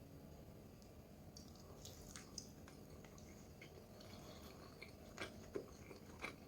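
Faint, scattered soft clicks and wet squishes of raw food being handled and cut in the kitchen, a few a little louder near the end.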